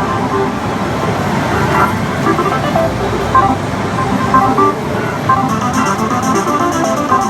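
Loud, dense pachislot parlour din: many slot machines' electronic jingles and effects overlapping into a steady wash, with a quick high rhythmic ticking joining in after about five seconds.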